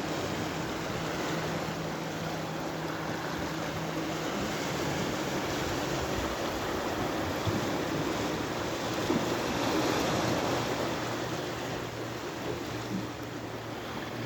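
Sea waves washing in a steady rush of surf, with a low motor hum underneath that drops in pitch about four seconds in.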